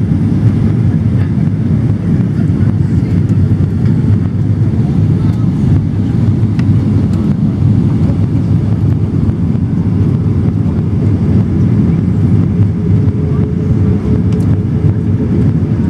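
Airliner landing: a steady low rumble that holds level and pitch throughout.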